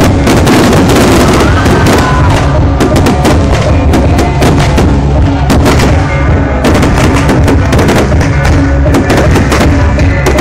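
Aerial fireworks bursting in a dense, continuous barrage: many sharp bangs and crackles over a steady low rumble, very loud.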